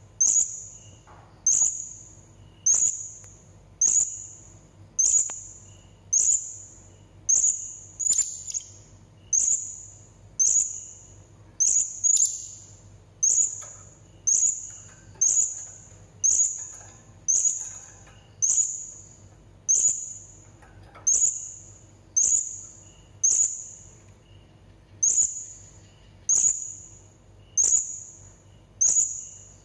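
Blue-crowned hanging parrot (serindit) giving short, sharp, very high-pitched calls, one about every second, evenly repeated.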